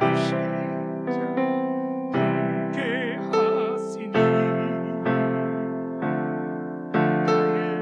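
Piano playing a slow hymn in sustained chords, a new chord struck about once a second and left to ring.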